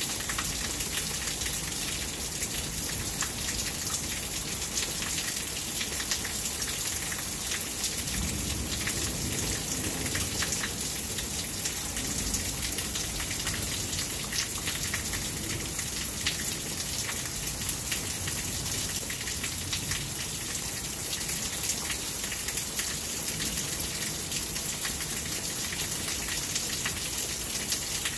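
Steady rain from a rainstorm, with many individual drops striking close by.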